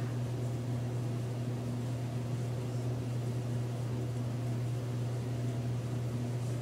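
A steady low hum with a faint hiss behind it, unchanging throughout, like an appliance, fan or electrical hum in the room.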